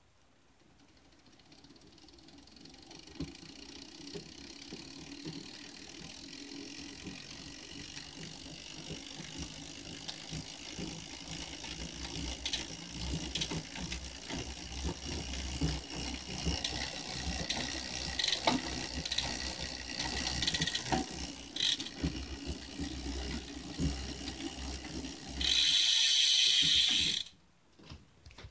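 Bicycle freewheel and chain running, with rapid clicking and rattling that grows steadily louder: the abnormal freewheel and chain noise. Near the end a loud steady hiss lasts about two seconds, then the sound drops away.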